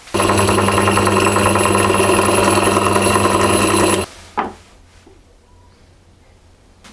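Electric power tool motor running steadily at full speed for about four seconds, then cutting off, with a brief short sound about half a second later.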